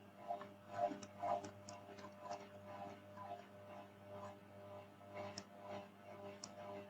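Computer keyboard keys clicking in short, irregular keystrokes over a faint steady electrical hum.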